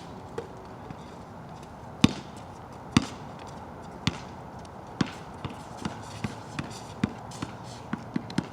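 A basketball being dribbled on a wet court. The bounces come about once a second, then quicken to two or three a second in the second half, over a steady hiss of rain.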